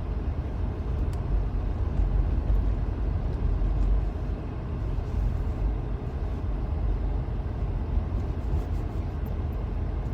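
Inside a car driving slowly on a snow-covered road: a steady low rumble of tyres and engine.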